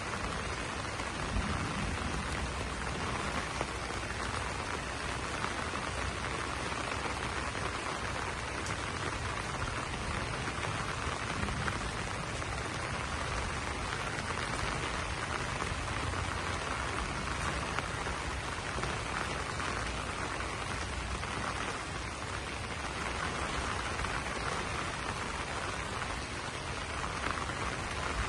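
Steady rain falling on broad banana leaves, a dense patter of drops with small irregular louder hits.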